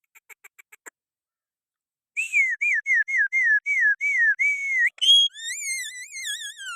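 Parrot calling: a quick run of short chirps, then after a pause a string of about nine falling whistled notes, followed by a long wavering whistle that drops in pitch near the end.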